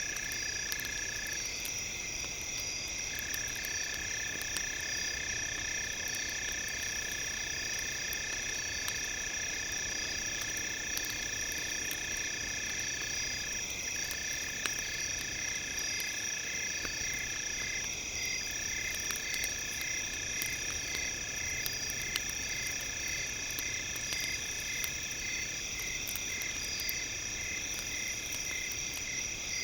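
Layered steady high-pitched electronic tones, one of them pulsing about twice a second from about halfway, laid over a campfire crackling with scattered small pops.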